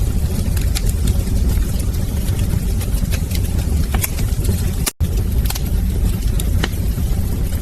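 Wood fire burning in a fireplace: a steady low roar of flames with frequent sharp crackles and pops. The sound drops out for an instant about five seconds in.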